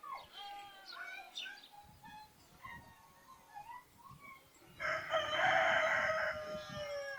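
A rooster crows once, a long call of about two and a half seconds starting about five seconds in and falling slightly at the end. Before it, sparrows and other small birds chirp here and there.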